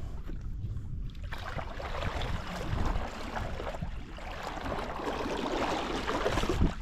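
Kayak paddling: the wash and splash of paddle strokes in the water begins about a second in and swells and fades, over a steady low rumble of wind on the microphone.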